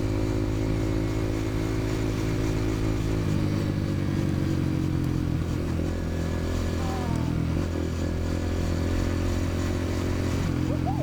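Dirt bike engine running steadily at a constant level, its note shifting slightly about three seconds in.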